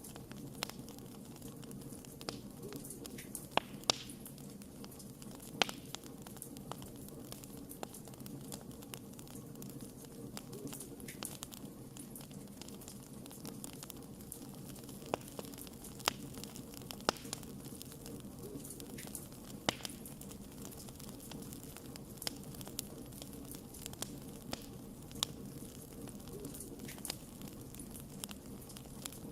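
Wood fire burning steadily with a low rumble, broken by frequent irregular sharp crackles and pops from the burning wood.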